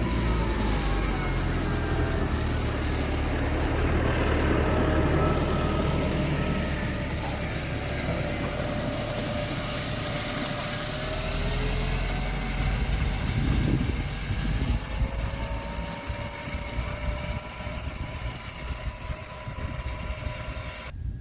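A vehicle engine running steadily, its pitch drifting up and down. About two-thirds of the way through the engine sound drops away, leaving quieter, uneven outdoor noise.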